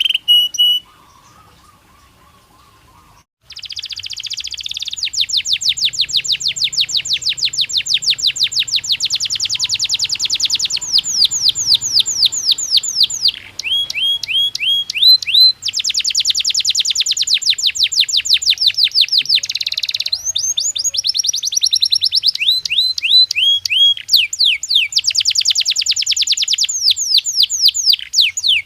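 Domestic canary singing: after a short quiet gap at the start, long rolling trills of fast repeated notes, the pattern changing from phrase to phrase.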